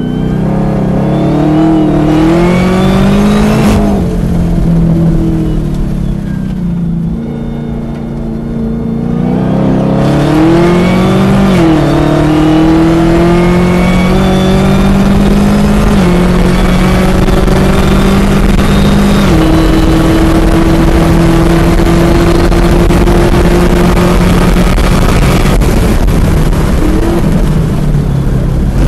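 Chevrolet Camaro ZL1 1LE's supercharged 6.2-litre V8 at full throttle around a race circuit. The engine climbs in pitch, then eases off at part throttle for a few seconds. It then pulls hard again, with sudden drops in pitch at three upshifts before it holds a high, steady note.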